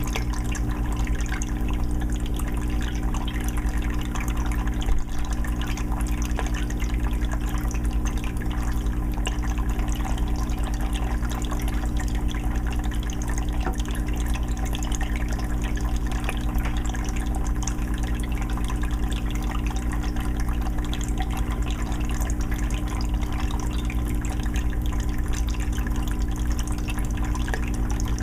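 Aquarium filter running: water trickling and splashing back into the fish tank with many small drips, over a steady low hum. A single brief knock about five seconds in.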